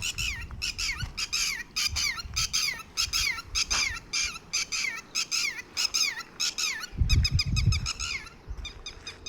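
Morning birds calling, a quick run of short, high chirps that each sweep downward, about two a second. A low rumble comes in around seven seconds.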